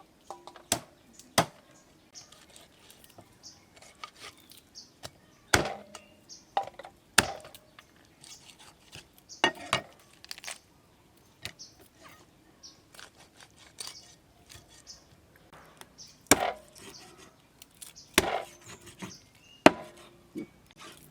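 A kitchen knife chopping on a wooden cutting board: single sharp chops spaced irregularly, a second or several apart, with softer knocks and scrapes in between.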